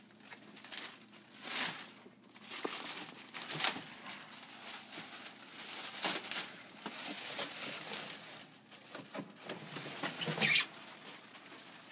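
Plastic packaging wrap crinkling and rustling in irregular bursts as wrapped parts are handled, with louder handling noises about three and a half seconds in and near the end.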